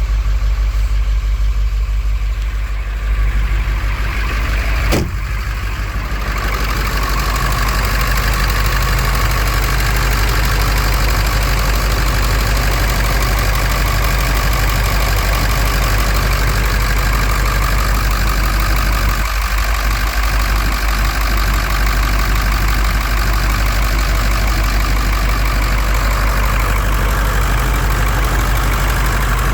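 1999 Ford F450 engine idling steadily after a cold start, with a single sharp click about five seconds in.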